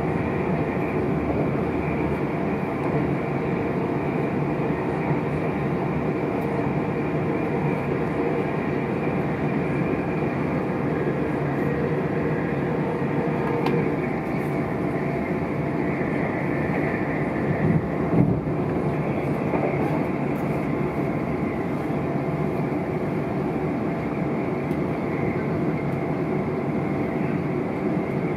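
Steady running noise of a South Western Railway passenger train at speed, heard from inside the carriage. A couple of louder knocks come about two-thirds of the way through.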